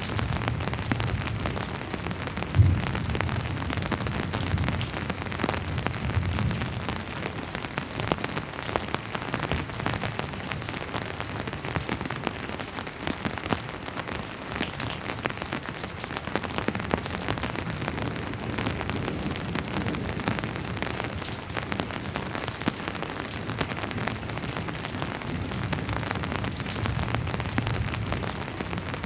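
Steady rain, a continuous hiss full of individual drops ticking, with one sharper, louder drop hit a couple of seconds in. Low rumbles of faint distant thunder swell in now and then.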